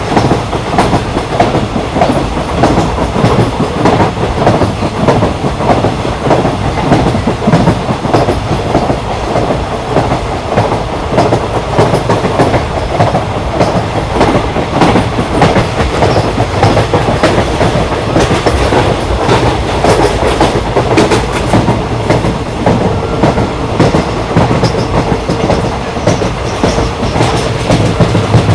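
A train running on rails: a steady rumble with the continuous clickety-clack of wheels over the track.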